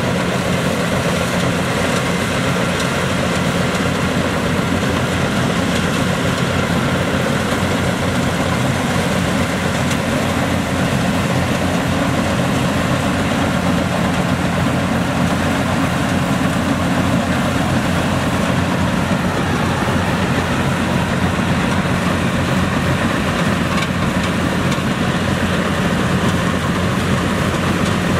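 Yanmar YH700 rice combine harvester running steadily, its engine giving an even low hum under a dense mechanical clatter that does not change in level.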